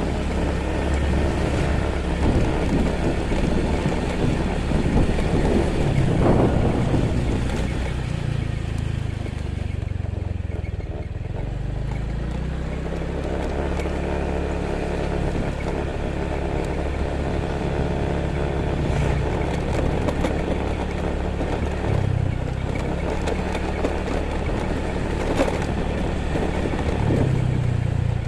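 Motorcycle engine running steadily while riding, its pitch shifting a little now and then, with wind and road noise.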